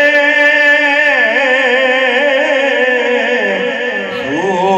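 A man singing a Punjabi naat, drawing out one long wavering melismatic note between lines of the verse. The note dips lower about three and a half seconds in and climbs again near the end.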